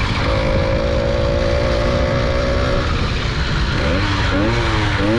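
Small motorbike engine running at a steady pitch, then revved up and down several times near the end.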